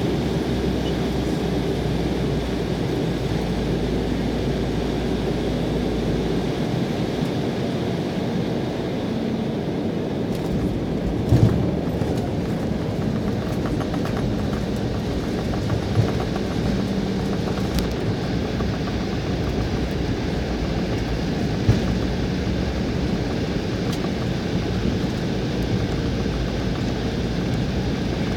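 Cabin noise inside an Embraer 190 twin-turbofan airliner during landing: a steady rush of engine and air noise. A low hum drops away about six seconds in, and there are three brief thumps, the loudest about eleven seconds in.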